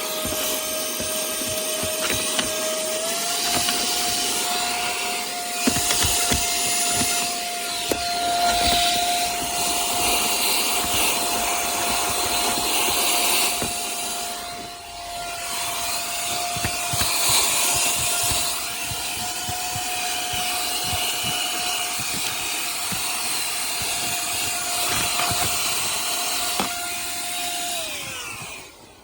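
Tiazhan cordless handheld vacuum running, a steady motor whine over rushing air, its pitch stepping up slightly a few seconds in. Small knocks and rubbing sound against a surface throughout. Near the end the motor winds down and stops.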